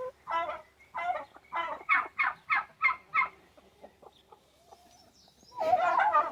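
Chickens clucking in a run of short calls, about three a second, then a pause and a louder burst of calls near the end.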